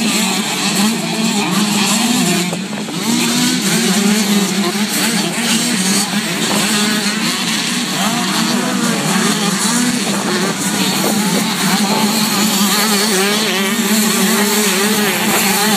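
Motocross bikes racing, their engines revving hard with a pitch that keeps rising and falling as riders accelerate and back off, several engines overlapping.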